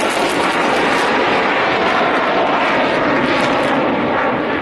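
Loud, steady rush of an F-16 Fighting Falcon's jet engine going by, its high hiss easing slightly near the end.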